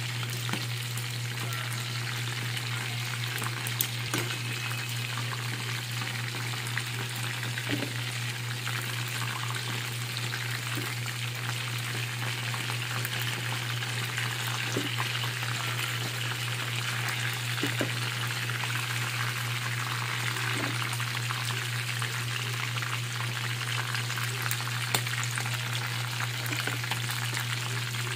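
Chicken pieces deep-frying in hot oil in a steel wok, a steady sizzle throughout. Now and then the metal tongs clink against the wok as the pieces are turned. A steady low hum runs underneath.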